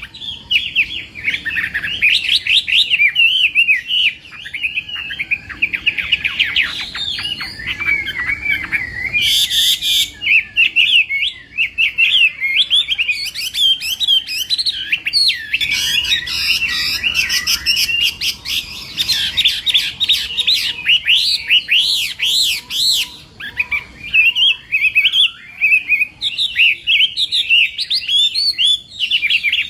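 Chinese hwamei singing a long, rapid run of varied whistled notes with hardly a pause. A short harsh burst comes about nine seconds in.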